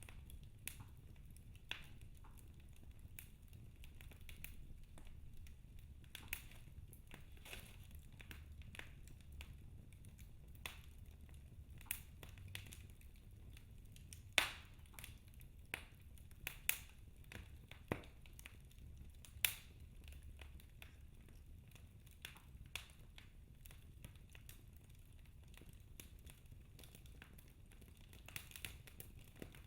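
Wood fire in a fireplace crackling: irregular sharp pops and snaps from the burning logs over a low, steady rumble of the flames, with a few louder pops in the middle.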